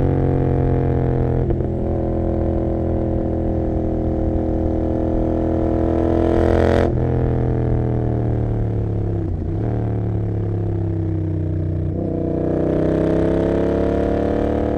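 Royal Enfield Continental GT 650's parallel-twin engine running through an Emgo cafe muffler with no dB killer, heard from on board while riding. The steady exhaust note rises and falls with the throttle and breaks briefly a few times, as at gear changes.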